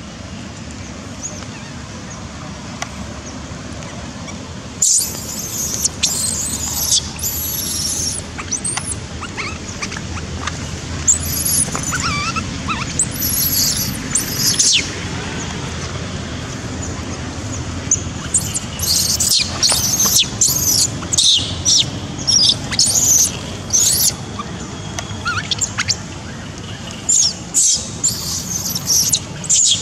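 Baby macaque squealing in short high-pitched cries, again and again, starting about five seconds in and coming thick and fast in the second half: the distress cries of an infant being weaned by its mother.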